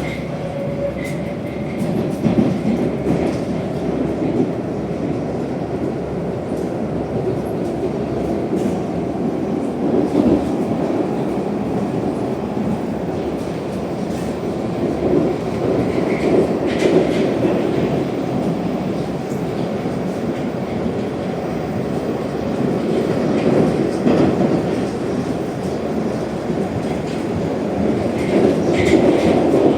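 Metro train running between stations, heard from inside the car: a steady rumble of wheels on rails with some clatter over rail joints, and a couple of brief high squeals from the wheels, about halfway through and near the end.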